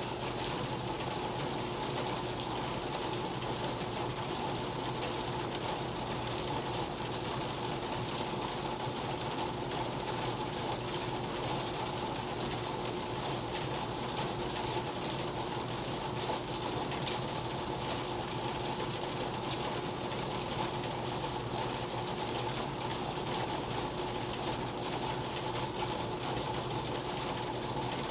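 Steady rain falling on a hut, a dense constant hiss full of fine drop ticks, with a few slightly louder drops about two-thirds of the way through.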